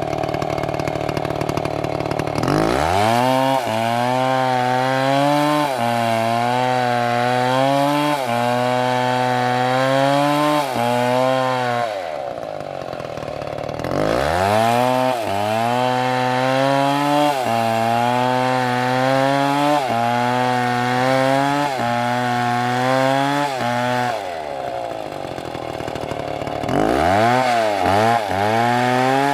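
Large two-stroke MS720 chainsaw revving to full throttle and cutting into a big tree, its engine note sagging and recovering again and again under the load of the cut. It drops back to idle about 12 s in and again about 24 s in, revving back up into the cut each time.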